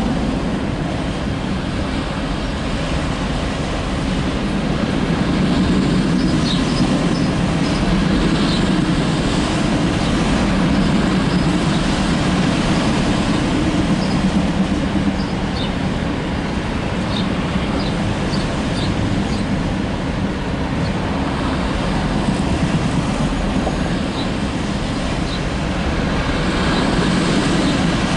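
Empty CSX autorack freight cars rolling past on the rails: a steady rumble of steel wheels on track, with short high wheel squeals scattered through it.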